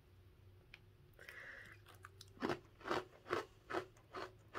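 Close-up crunchy chewing of a dry, twice-baked mini bread snack (Mediterranean bruschetta bites with tomato, olive and oregano). Regular crunches, about two and a half a second, start about halfway in.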